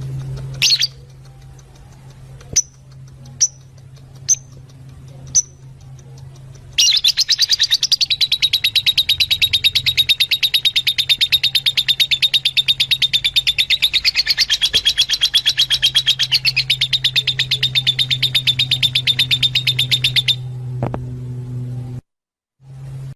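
Fischer's lovebirds calling: a few single sharp chirps in the first seconds, then, from about seven seconds in, a dense, rapid chatter of high chirps lasting some thirteen seconds, over a steady low hum.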